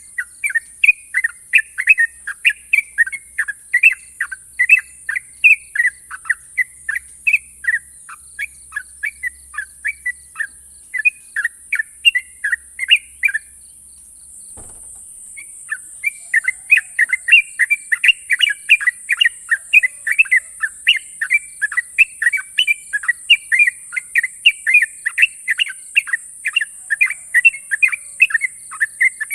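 Yellow-vented bulbul (trucukan) singing a long, fast run of short chirping notes, about two or three a second. The song breaks off for a second or so about halfway, with a soft knock, then starts again.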